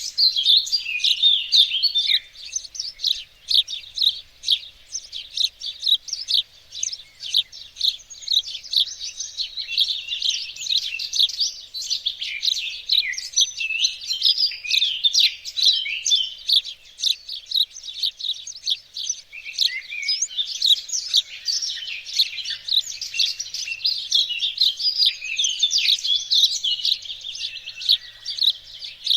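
Garden songbirds chirping and singing in a dense, unbroken chorus of quick, high chirps.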